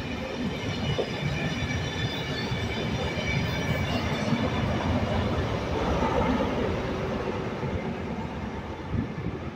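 A Colas Rail class 43 HST diesel power car running at the rear of a test train as it passes and draws away, with engine rumble, wheel-on-rail noise and a steady high whine. It is loudest as the power car goes by, about halfway through, then eases off as it pulls away.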